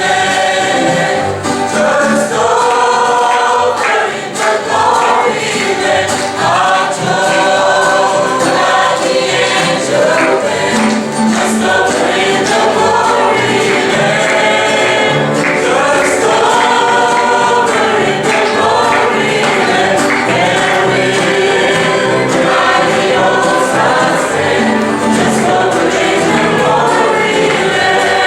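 A choir singing a gospel hymn.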